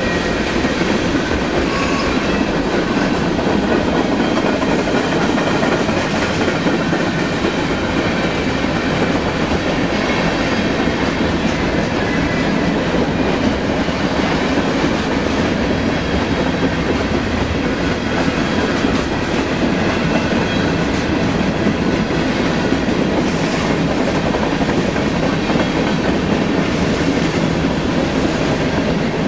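BNSF manifest freight train passing through at speed: a steady rush of wheel and rail noise that holds at an even level.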